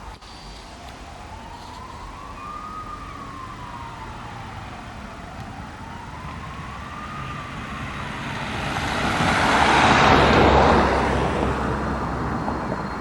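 Emergency vehicle siren wailing, its pitch rising and falling slowly about every four and a half seconds, then fading out about seven seconds in. A vehicle then passes close, its noise swelling to a peak near ten seconds and dying away.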